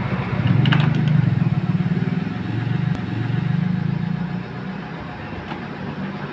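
A small motorcycle engine running, a low pulsing hum that fades away after about four and a half seconds, with a couple of light clicks.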